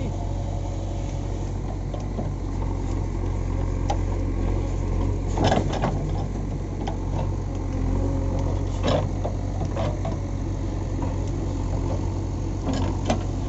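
JCB 3DX backhoe loader's four-cylinder diesel engine running steadily under work. A couple of sharp knocks come through, about five and a half seconds in and about nine seconds in.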